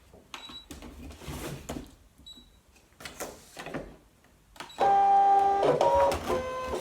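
Faint rustling of paper and mat being handled, then a Brother ScanNCut cutting machine drawing the mat in. Its feed motor gives a loud steady whine for about two seconds near the end, shifting pitch a couple of times.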